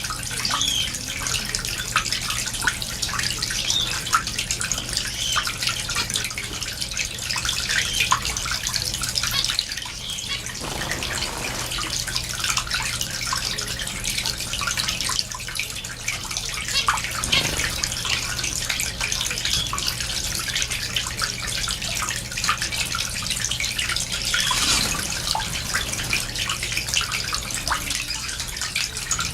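A mixed flock of small cage finches (zebra finches, society finches and Gouldian finches) chattering at once: a dense, unbroken stream of short high chirps.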